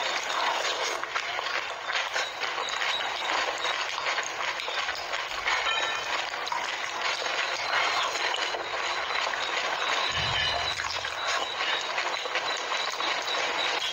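Close-miked eating of pani puri: continuous crunching and crackling of crisp puri shells being chewed with the spiced water.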